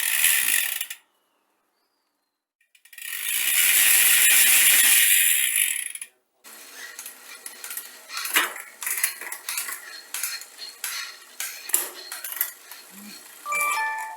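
A short burst of hissing, then a longer hiss of about three seconds, followed by a busy run of light metallic clinks and rattles as small metal parts or tools are handled.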